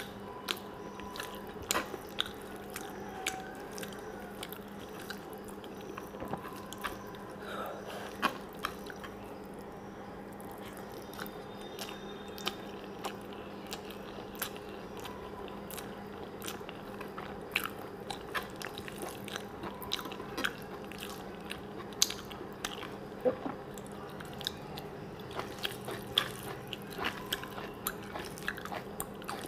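Close-miked chewing of rice and vegetable curry eaten by hand, with many short, sharp smacking clicks scattered throughout. A steady low hum runs underneath.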